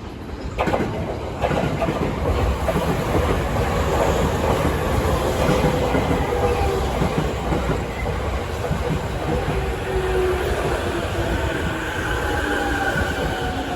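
E231-series electric commuter train pulling into the station: steady running rumble with a few sharp wheel clacks over rail joints in the first couple of seconds, and whining tones that fall in pitch in the second half as the train slows.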